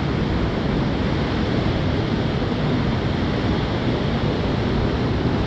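Steady rush of fast-flowing water, a constant even noise with no breaks or swells.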